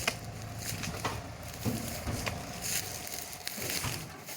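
A machine's motor running steadily, with scattered sharp cracks and knocks. The motor dies away at the very end.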